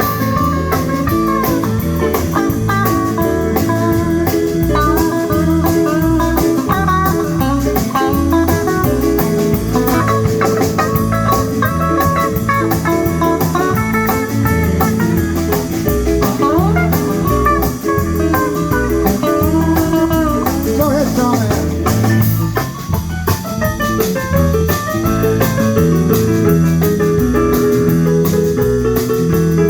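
Blues band playing an instrumental break with a lead guitar solo over bass and drums, at a steady beat.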